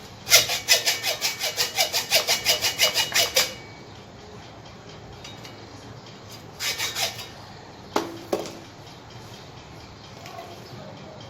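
Rapid back-and-forth rasping strokes of an abrasive hand tool working the corroded compass, about five or six strokes a second for some three seconds. A few seconds later comes a short burst of a few more strokes, then two sharp knocks.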